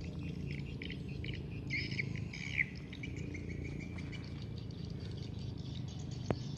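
A bird calls with a quick run of chirps about two seconds in, over steady low background noise of the swamp forest. There is a single sharp click near the end.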